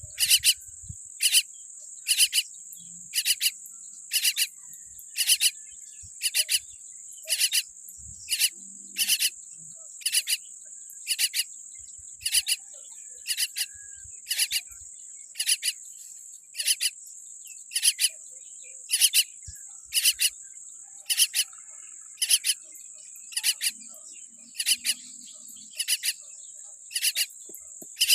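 A steady high-pitched insect trill, like crickets, with short harsh chirps repeating evenly about once a second.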